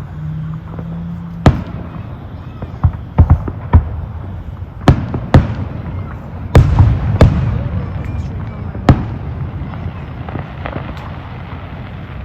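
Fireworks going off: about nine sharp bangs at irregular intervals, several close together in the middle, some trailing a brief rumble, over a steady low hum.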